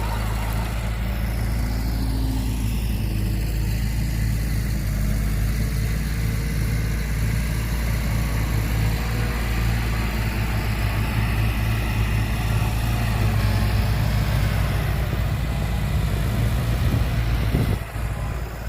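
Heavy diesel engine of earthmoving equipment running steadily under load with a rough, noisy rumble, dropping off sharply near the end.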